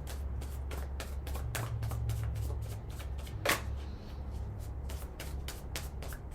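Tarot cards being shuffled by hand: a run of quick clicks and snaps, one louder about three and a half seconds in, over a steady low hum.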